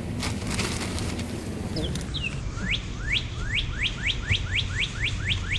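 A wild songbird singing a fast series of short, rising whistled notes, about four a second, starting about halfway in. A steady low hum runs underneath.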